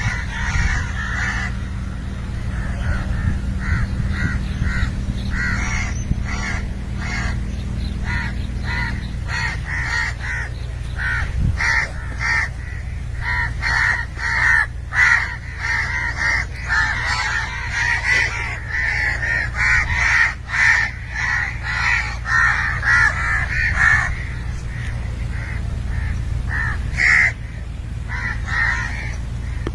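Birds calling over and over in many short calls, thickest and loudest in the middle stretch, over a steady low rumble.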